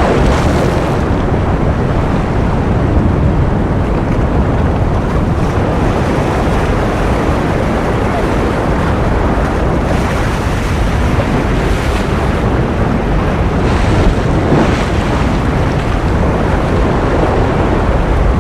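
Steady ocean surf noise, a dense even wash heaviest in the low end, with a few brief surges of brighter hiss.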